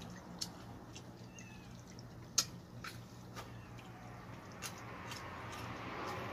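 Chewing and crunching a grilled quail close to the mouth: scattered sharp clicks and crunches, the loudest about two and a half seconds in, over a steady low hum.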